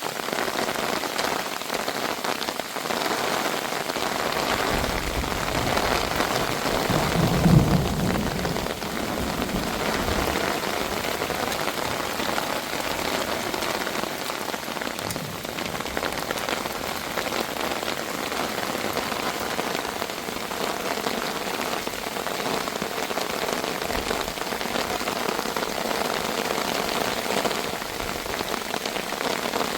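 Heavy rain falling steadily, with a short low rumble about seven seconds in.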